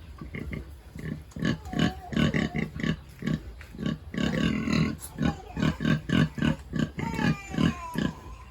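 Pigs grunting in a quick series of short grunts, two or three a second, with a few brief higher squeals about halfway through and near the end.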